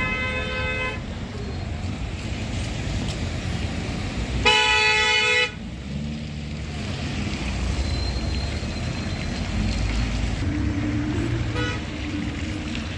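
Vehicle horns honking over steady street traffic noise: a short honk at the start, a louder one-second honk about four and a half seconds in, and a faint one near the end.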